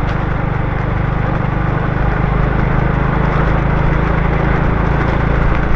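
Small motorbike engine running steadily at low revs, over a hiss of rain and wet road.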